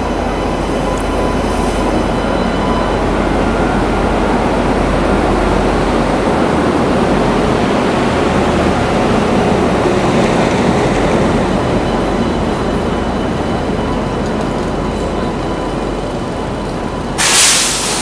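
Electric locomotive and passenger coaches rolling slowly alongside a platform as the train pulls in, a steady loud rumble with a few faint steady tones. A second before the end there is a short, loud hiss of air.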